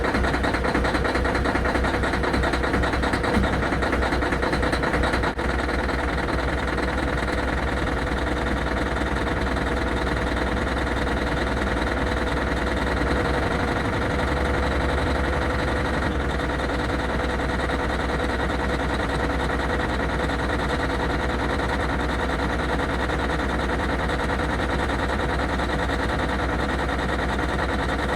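Caterpillar C15 inline-six diesel in a Kenworth W900L idling steadily after a cold start. The level steps down slightly about five seconds in, then holds even.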